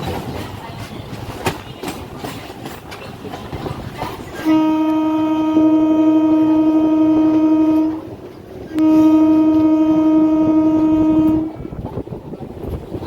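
Train horn sounding two long blasts of about three seconds each, one steady tone, after a few seconds of train rumble and wheel clatter on the rails.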